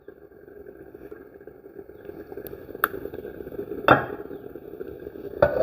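Coconut oil being poured into a heated pan, a soft steady hiss, with three light knocks of a utensil against the pan.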